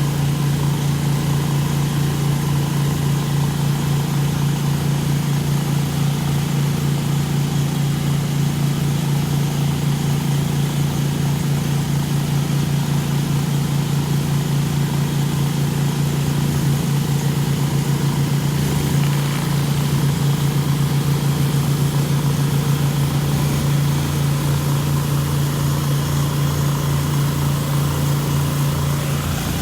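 Pressure washer's engine running steadily in a continuous drone, with an even hiss of water spray over it.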